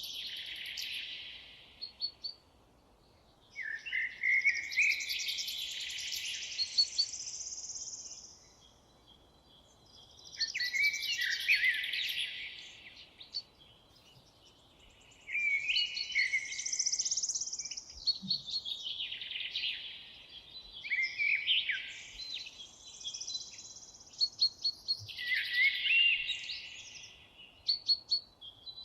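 Songbirds singing in a forest: complex warbling song phrases a few seconds long, high in pitch, repeated with short pauses between them.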